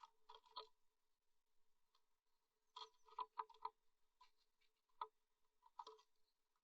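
Faint, irregular taps and scratches in small clusters from blue tits moving about inside a wooden nest box, over a faint steady hum.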